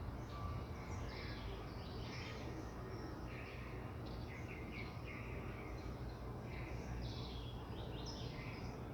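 Steady rain noise with many short, high chirping calls from small animals, repeated irregularly.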